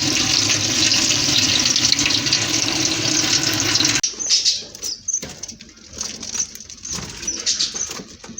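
Steady rush of running water, like a tap, that cuts off sharply about four seconds in. It gives way to cage birds chirping in short high calls, with light clicks and fluttering.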